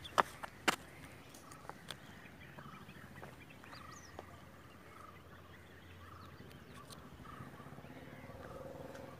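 Quiet outdoor ambience with faint, short distant bird calls repeating through it, after a few sharp clicks near the start.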